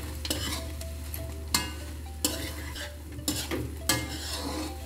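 Chicken wings being tossed in a salted egg mixture in a wok, sizzling steadily, while a metal spatula scrapes and stirs, with about five sharp clacks of the spatula against the pan.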